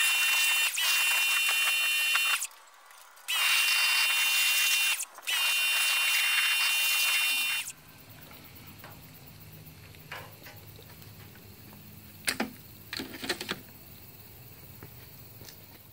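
Jet of water spraying with a thin high whistle in it, in three long bursts with short breaks, stopping about eight seconds in. After that a faint low hum and a few light knocks.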